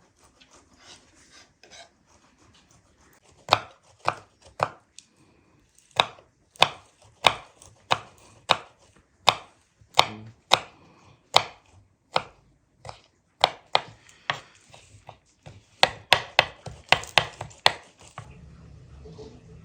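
Knife chopping food on a cutting board: sharp, separate chops at about one or two a second, quickening into a fast run near the end.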